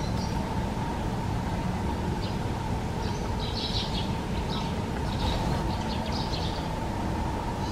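Short, high bird calls, repeated at irregular intervals, over a steady low rumble and a faint steady hum.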